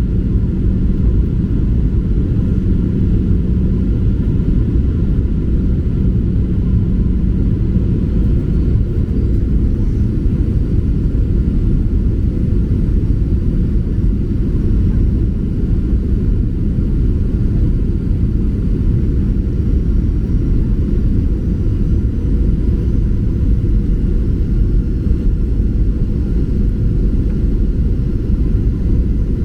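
Steady cabin noise of a Boeing 737-800 airliner in flight: an even, deep rumble of engines and airflow that doesn't rise or fall.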